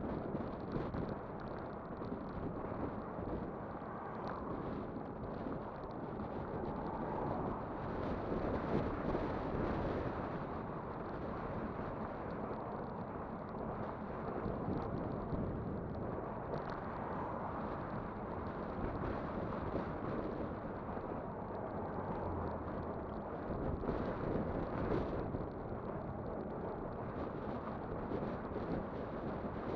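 Wind rushing over the microphone of a moving e-bike, mixed with the rumble of its tyres on the road. It is a steady, noisy rush that swells and eases a little.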